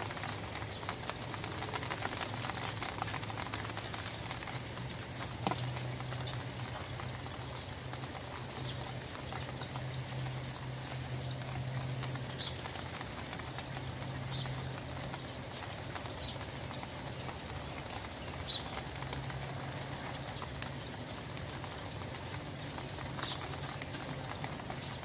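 Rain falling on an umbrella canopy: a steady, even patter of drops on the fabric, with one sharper tap about five seconds in. A low steady hum runs underneath.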